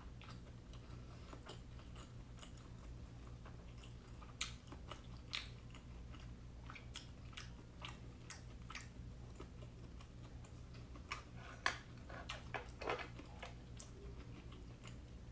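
Close-up chewing and mouth sounds of someone eating steamed siomai dumplings: scattered soft wet clicks and smacks, thickest about four seconds in and again near the end, over a steady low hum.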